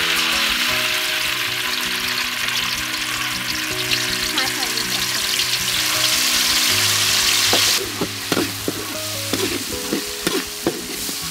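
Pounded dried sweet pepper paste sizzling loudly in hot oil in a steel wok. The sizzle drops to a lower level about eight seconds in, and a spatula's scraping and clicking is heard as the paste is stirred.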